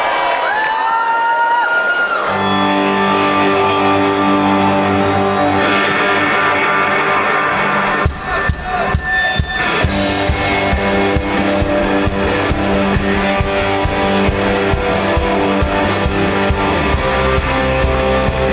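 Live rock band starting a song: sustained electric guitar chords with a bass note come in about two seconds in. Drums enter around eight seconds, and the full band with cymbals plays from about ten seconds.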